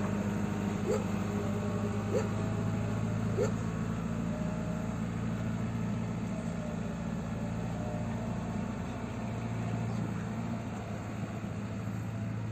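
JCB 3CX backhoe loader's diesel engine running steadily. In the first few seconds a short squeak comes about every second and a quarter.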